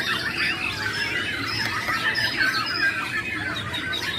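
Many caged songbirds singing at once, a dense chorus of overlapping chirps, trills and whistles with no pause.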